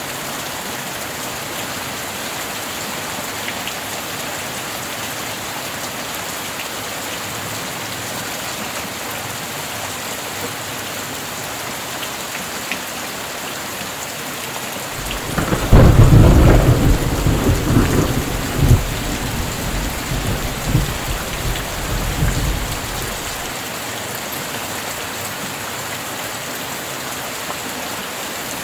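Steady heavy rain falling throughout. About halfway through a thunderclap breaks in, the loudest thing here, and rumbles on in several swells for some seven seconds before fading back under the rain.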